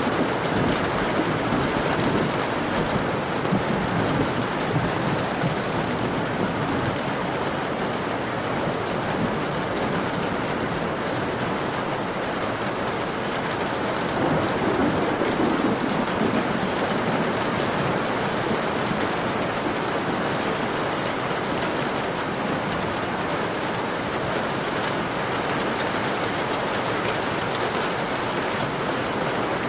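Steady heavy rain pattering on a window pane, with a low rumble swelling up near the start and again about halfway through.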